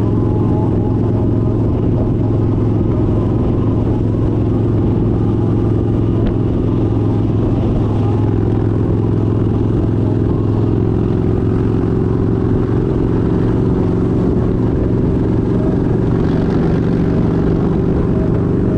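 Kawasaki Vaquero 1700cc V-twin motorcycle engine running steadily while cruising, heard from the rider's seat.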